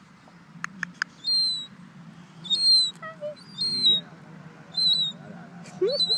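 A seagull calling noisily: a series of five thin, high-pitched calls about a second apart, each falling slightly in pitch. Three sharp clicks come in quick succession about a second in.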